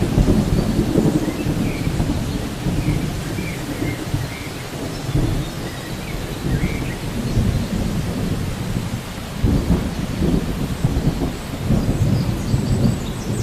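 Steady rain with low, rolling thunder that swells and fades every few seconds.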